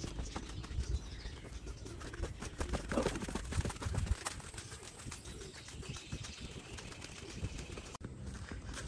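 Birds calling faintly over steady low rumbling outdoor noise.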